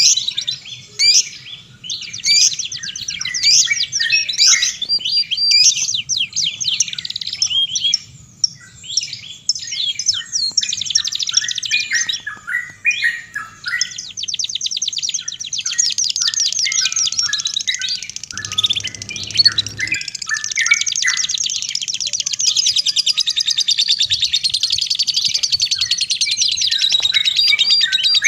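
Songbird song: a dense run of quick chirps and whistles that turns, about halfway through, into a fast continuous trill.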